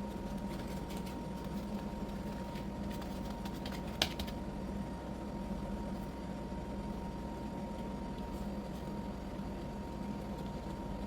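A steady hum with a single sharp click about four seconds in.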